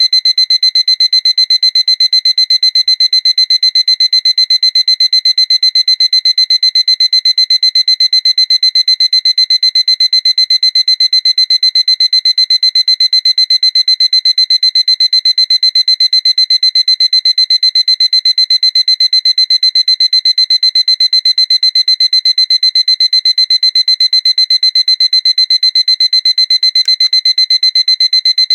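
Seiko alarm clock's electronic alarm going off: a loud, high-pitched beep pulsing rapidly and evenly, without a break.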